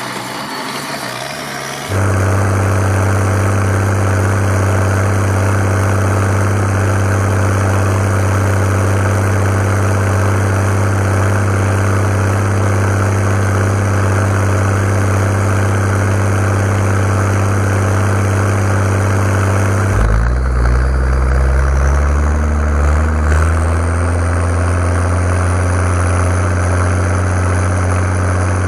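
Ursus 1634 tractor's diesel engine running at a steady speed. About twenty seconds in, its note dips and then climbs over a few seconds as the engine speed changes, then holds steady again.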